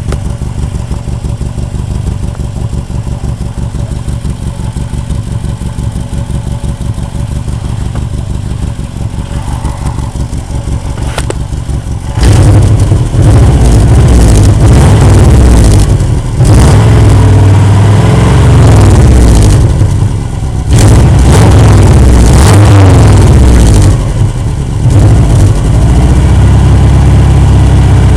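Subaru Legacy's EJ22 flat-four idling with a leaking exhaust, then from about 12 s in much louder and revved up and down several times. The leak is at a joint fitted with plain bolts instead of spring bolts, and the owner calls it pretty bad from hitting snowbanks.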